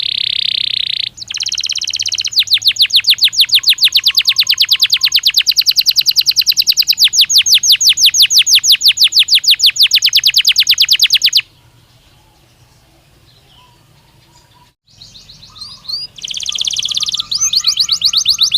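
Domestic canary song: a short buzzy roll, then a long, very fast trill of evenly repeated rising notes lasting about nine seconds. After a pause of a few seconds the song resumes with more rapid rolls.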